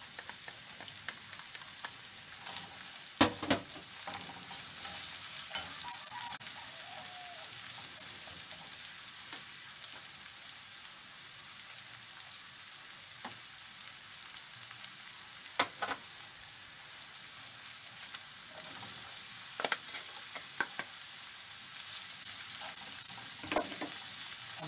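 Diced onion and garlic sizzling in hot oil in a non-stick frying pan, a steady hiss, with stirring and a few sharp knocks, the loudest about three seconds in.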